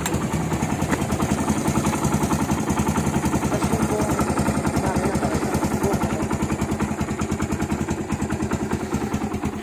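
Kawasaki Barako 175's single-cylinder four-stroke engine idling with a steady, even beat, run as a sound check right after a tune-up with the valve clearances freshly set.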